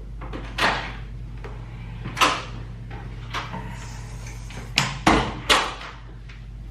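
A series of sharp knocks and bangs, about six over several seconds, the loudest near the start and in a quick cluster about five seconds in, over a steady low hum.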